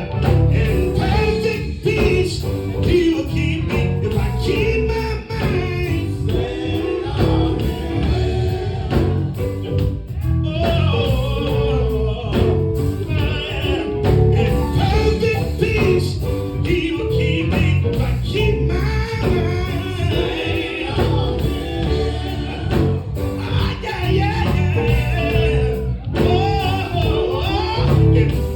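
Gospel music: voices singing over a full band with a heavy bass line, playing without a break.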